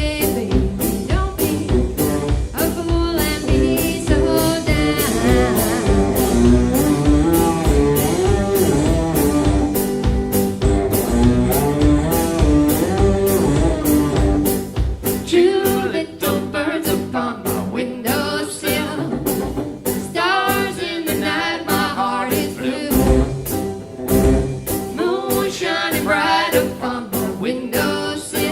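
Live band music: a voice singing over instruments, with a steady beat of about two strokes a second.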